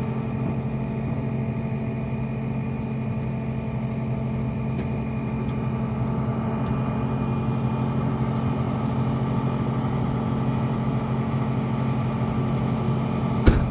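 Flatbed tow truck's engine running steadily at low speed as the truck pulls up, with one sharp click near the end.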